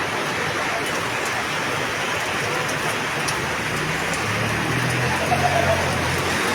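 Heavy rain falling steadily, an even dense hiss of rain on surfaces. Faint low humming tones join in over the second half.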